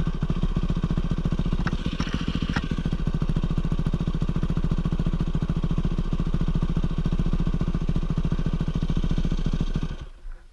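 Dirt bike engine running steadily at low revs, with two sharp clicks about two seconds in; the engine stops shortly before the end.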